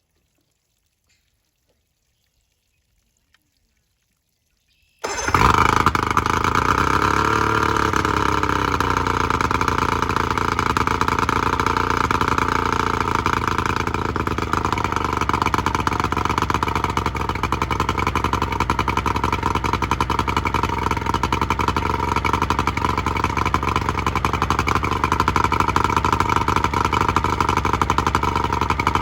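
Near silence, then about five seconds in a 1985 Evinrude 70 HP two-stroke outboard on water muffs suddenly starts. Its revs rise and fall briefly before it settles into a steady run, a test run on its freshly fitted head gasket.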